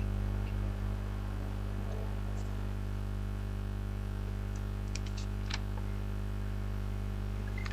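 Steady electrical mains hum in the audio line, with a few faint clicks about five seconds in.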